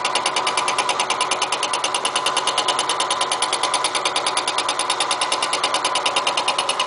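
Milling machine running a single-point fly cutter through a light facing cut on a steel railway rail: an interrupted cut, heard as a fast, even rhythm of cutter strikes over a steady machine whine.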